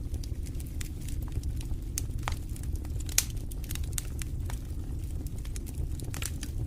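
Wood fire burning in a fireplace: a steady low rumble of the flames with frequent irregular sharp crackles and pops, one louder pop about three seconds in.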